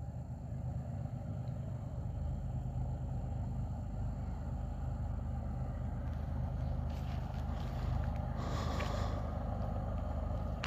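Steady low engine drone of a distant diesel locomotive, with a short hiss about eight and a half seconds in.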